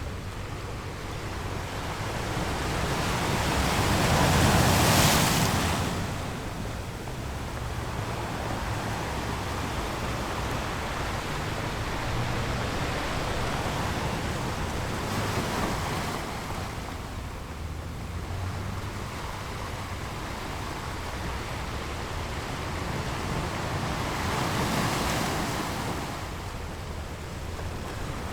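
Ocean surf sound effect: waves breaking and washing in, swelling three times about ten seconds apart, the first surge the loudest, over a steady low rush.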